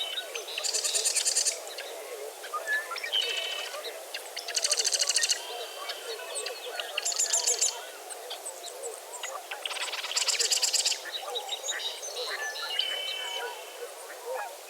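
Dawn chorus of many birds calling at once. One bird repeats a short, high, buzzy trilled song four times, about every three seconds, over scattered chirps and a low steady chatter of other birds.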